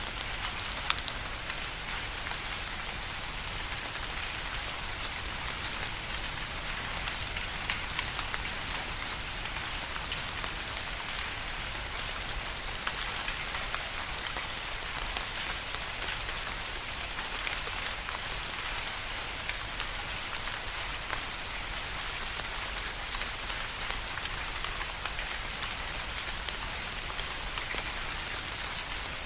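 Steady rain falling, with many distinct drops ticking on a surface over an even hiss.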